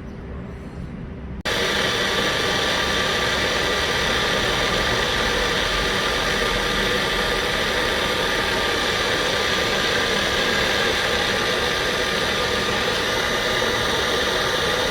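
Electric mixer grinder switched on about a second and a half in and running steadily with a motor whine, grinding a thick masala paste without water.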